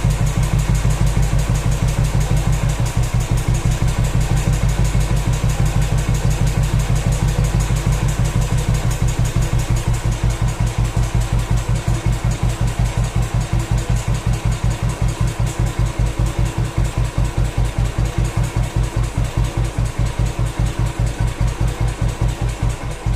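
1973 Moto Guzzi Nuovo Falcone's single-cylinder four-stroke engine idling very low, each firing beat heard separately. The beats grow further apart in the later part as the idle speed sags.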